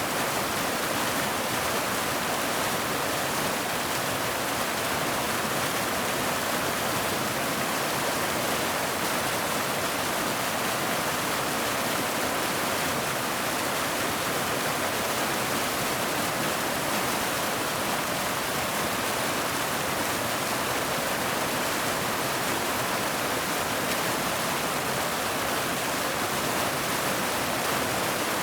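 Waterfall rushing steadily, a dense even hiss of falling water with no breaks or changes.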